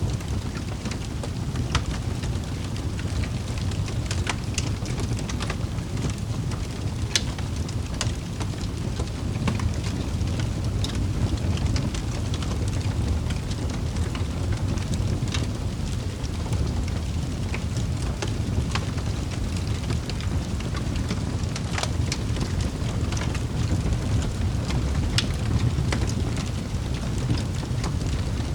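Wood fire burning in a fireplace: a steady low roar of flames with scattered sharp crackles and pops every second or two.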